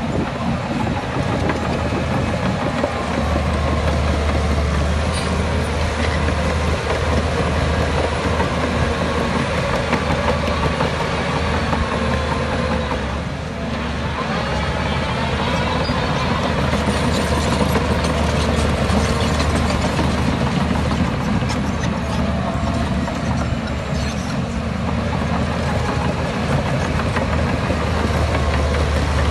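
Heavy diesel construction machinery (bulldozer and dump trucks) running continuously under load, with a brief dip in level about 13 seconds in.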